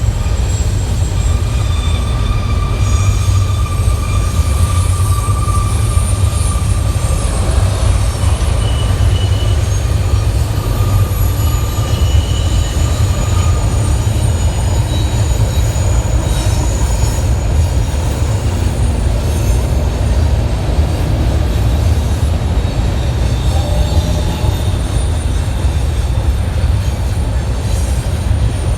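Freight train cars rolling past with a steady heavy rumble, and thin high-pitched wheel squeals coming and going over it.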